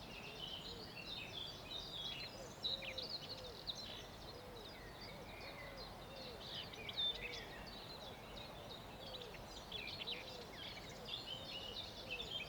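Faint dawn chorus: many small birds singing in quick high chirps and trills, with a low hooting call repeated about twice a second underneath.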